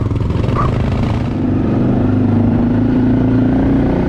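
Motorcycle engine running while riding on the road, a steady drone that settles into an even pitch after about a second and a half.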